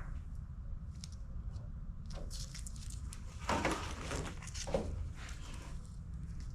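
Faint handling noises of wiring being worked on: light rustles and small clicks, with two louder rustles about three and a half and nearly five seconds in, over a steady low hum.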